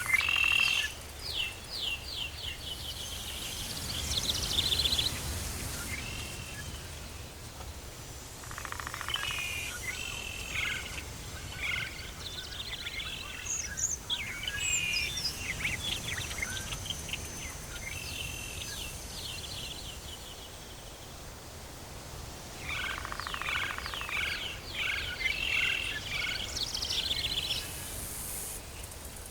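Birds singing in a tropical forest: several bouts of rapid, repeated chirps, over a steady low background hum of forest ambience.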